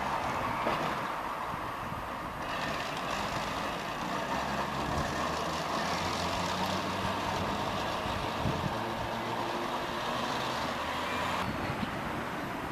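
Tram running on city track: a steady rumble with a low hum and no sudden events.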